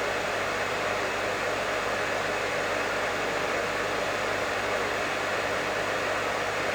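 Professional hair dryer running steadily: an even, unchanging rush of air with a low motor hum underneath.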